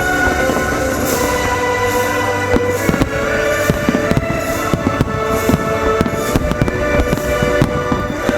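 Fireworks bursting and crackling in rapid succession over Christmas music, the bangs growing much denser about three seconds in.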